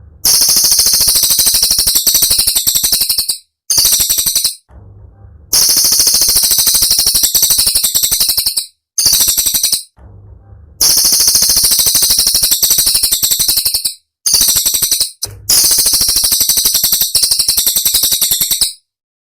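Cililin songbird singing rapid, harsh rattling trills (the 'tembakan' bursts used as bird-training material), in about seven phrases of one to three seconds, each broken off by a short silence, stopping shortly before the end.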